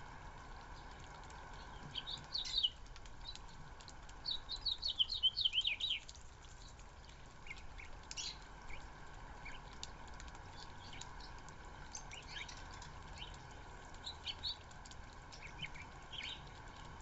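Small backyard birds chirping: scattered short high chirps, with a quick run of falling chirps about four seconds in, over a steady faint background hum.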